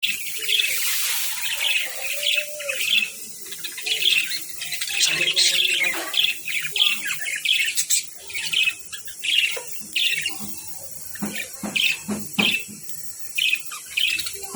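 Budgerigars chirping and chattering in quick, repeated short calls. Several sharp clicks come through about eleven seconds in.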